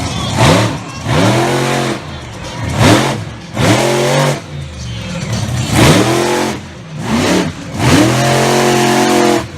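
Monster truck engine revving hard in repeated bursts, its pitch climbing and dropping each time. Near the end it is held high for about a second.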